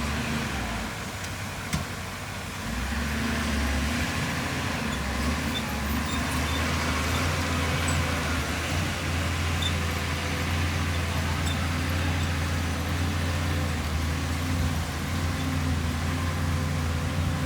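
Heavy earthmoving machine's diesel engine running steadily, growing a little louder about two and a half seconds in.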